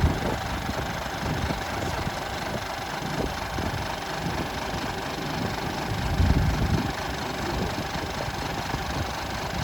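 Scania R480 truck's diesel engine idling steadily, with a louder low swell about six seconds in.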